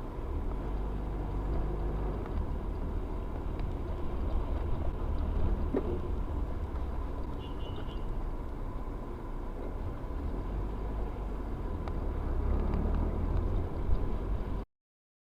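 Road and engine rumble of a moving vehicle, picked up by a dashcam, with a faint steady whine. A short high beep sounds a little past halfway, and the sound cuts off abruptly near the end.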